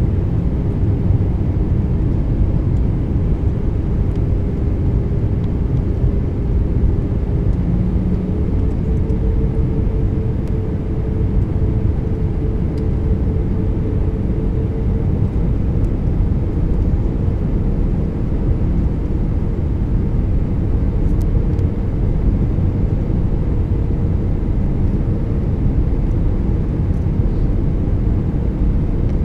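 Airbus A319 cabin noise from a window seat: a steady low rumble of engines and airflow, with a held engine tone that rises a little about nine seconds in.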